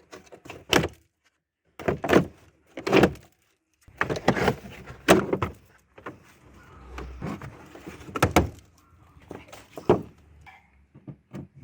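A string of irregular knocks and clunks, about a second apart, with rustling between them, from car parts being handled and moved during work on the car.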